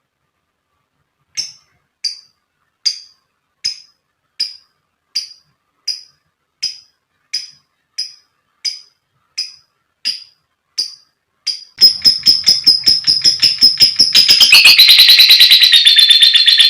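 Lovebird giving short, sharp, high chirps evenly spaced about every three-quarters of a second, then breaking into a fast continuous chatter (ngekek) about twelve seconds in, which grows louder and fuller near the end.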